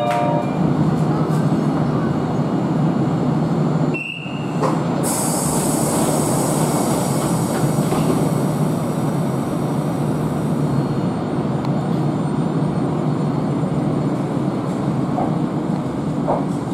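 Iyotetsu 700 series electric train (ex-Keio 5000 series) standing at the platform with its onboard equipment running as a steady hum. The doors close: a short high beep about four seconds in, then a long hiss of air for several seconds.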